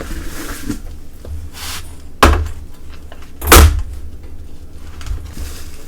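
Parts and packaging handled while unboxing a 3D printer: soft rustling broken by two loud thuds about a second and a half apart, as pieces are set down or knock against the box.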